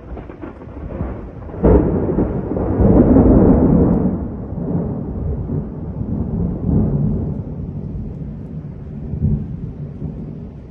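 Thunder: a low rumble builds, then a sharp crack comes just under two seconds in, followed by a long rolling rumble with uneven swells that slowly fades. It follows a double lightning strike moments earlier.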